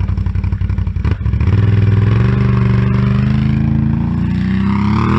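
Can-Am Outlander ATV's V-twin engine through an aftermarket slip-on exhaust, pulsing at low revs, then about a second in the throttle opens and it pulls under load. The revs climb steadily and rise sharply near the end, a load pass for a decibel reading.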